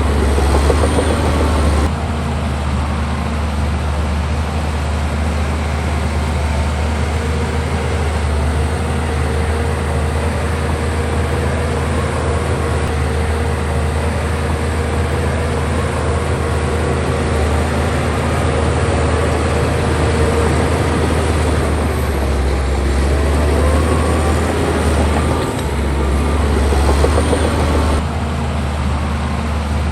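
Heavy diesel earthmoving machinery running steadily under load, with a deep, constant engine hum; the sound shifts abruptly about two seconds in and again near the end.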